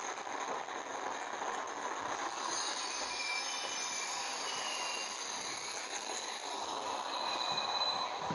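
Train moving through the station with its wheels squealing on the rails: thin, high squeals that come and go from a few seconds in, over steady running noise.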